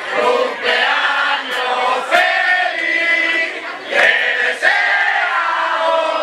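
Live rock and roll band playing a passage without lyrics: long melodic notes that bend in pitch, over the band, with a few sharp drum hits.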